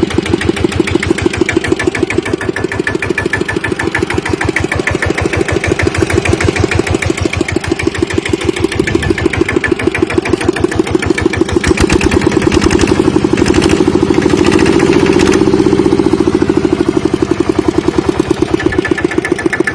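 Kubota RT120 Plus single-cylinder diesel engine running with a steady, evenly spaced beat of firing strokes. About twelve seconds in it speeds up and gets louder, then drops back toward idle near the end.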